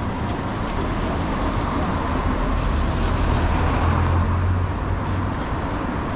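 City street traffic: a steady din of motor vehicles, with a low engine rumble swelling as a vehicle passes close by in the middle, then easing.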